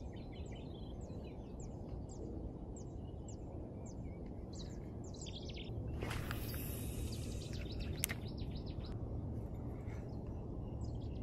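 A small bird calling over and over in the marsh: short, high chirps, each sweeping down, about two a second, over a steady low rumble. A brief hiss comes about six seconds in and a single click near eight seconds.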